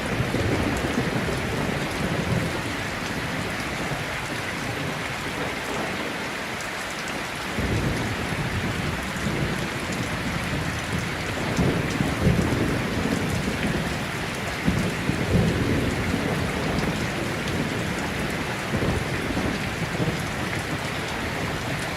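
Steady rainstorm with rolling thunder. The rain hisses evenly throughout. Low thunder rumbles at the start, eases off briefly, then returns in heavier rolls from about a third of the way in, loudest around the middle.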